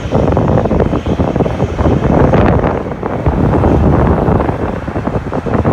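Wind buffeting the microphone in loud, irregular gusts, over the rumble of a departing jet airliner's engines.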